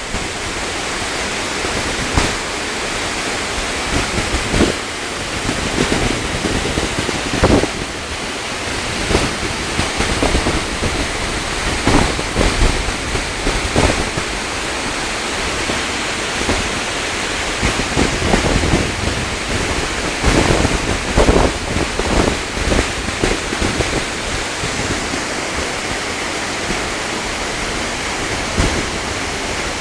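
Waterfall rushing with a steady, loud hiss of falling water, with irregular low rumbling gusts of wind hitting the phone's microphone.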